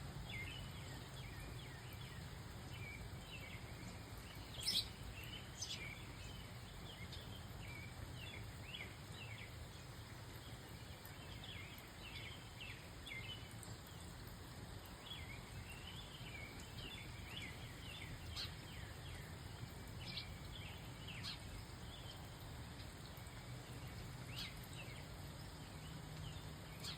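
Many small birds chirping with short, quick calls over a steady low rumble of outdoor noise. Now and then a sharp click cuts through, the loudest about five seconds in.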